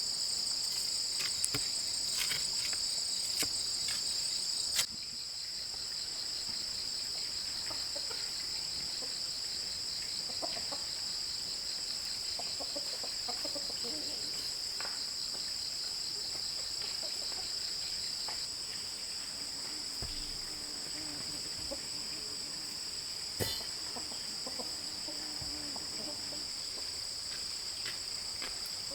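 Steady high-pitched trilling of an insect chorus. A few sharp knocks come in the first five seconds, and faint chicken clucking follows later.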